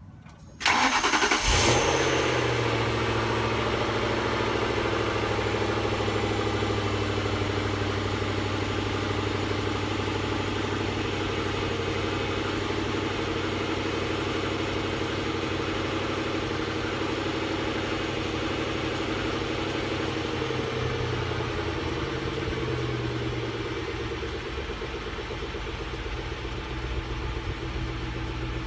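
2005 Lincoln LS 3.9-litre V8 cold start: it cranks and catches about half a second in, flares briefly, then settles into a steady fast idle. About three quarters of the way through the idle steps down a little as the cold-start fast idle eases off.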